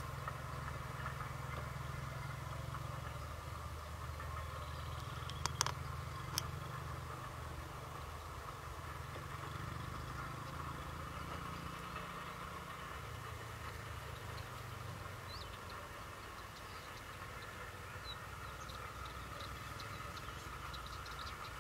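A steady low engine-like rumble, as of a vehicle idling, with a few sharp clicks about a quarter of the way in and faint short high chirps near the end.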